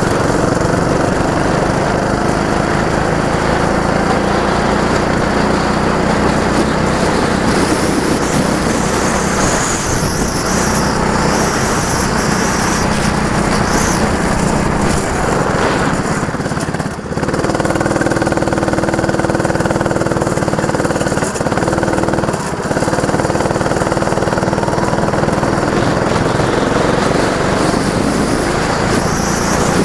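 Go-kart engine running hard on a kart track, its pitch shifting as the throttle changes, with a brief drop in level about seventeen seconds in and another shorter one a few seconds later.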